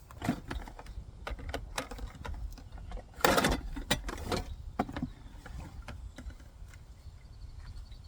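Objects being handled and set down: irregular knocks, clicks and rustles, the loudest a short burst about three seconds in, over a steady low rumble.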